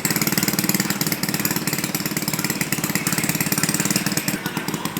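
Diesel engine of a Scania K360 coach running with a fast, even clatter, easing slightly about four seconds in.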